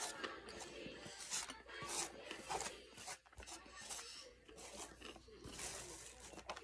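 Crunchy cheese-dusted taco shell being chewed close to the microphone: a run of short crunching, rasping noises.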